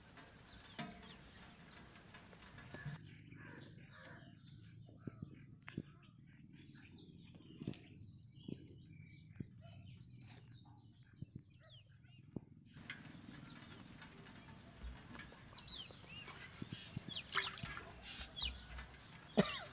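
Small birds chirping in many short, high notes, with a few soft knocks in between and a sharper knock near the end.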